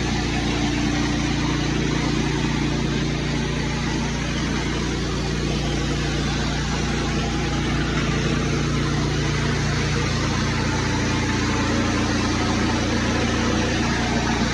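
Petrol engine of pressure-cleaning equipment running steadily under a constant hiss.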